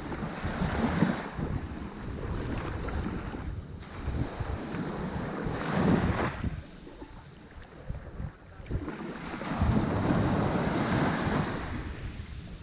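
Ocean waves breaking on a shore and washing back, in surges: a wave breaks about six seconds in, the surf drops to a lull, then another long wash swells up. Wind buffets the microphone with a low rumbling flutter.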